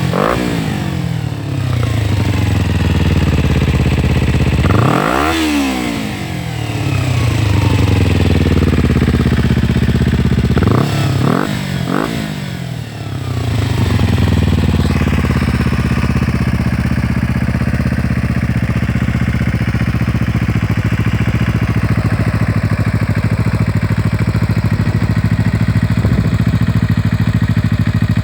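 Kawasaki Ninja 250's parallel-twin engine through an aftermarket sport exhaust. It is revved once about five seconds in and given three quick blips about halfway, then settles into a steady idle.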